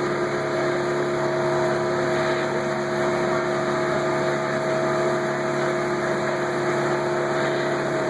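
Tour boat's motor running at a steady pitch, a constant hum with a clear whine in it.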